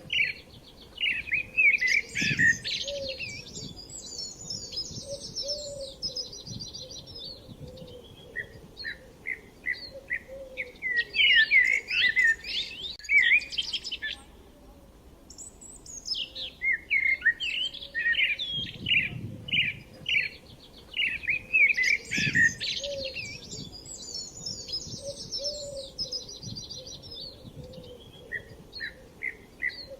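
Songbirds chirping and trilling in rapid, busy runs of calls, with brief pauses between runs; the same sequence of calls appears to come round again after about sixteen seconds.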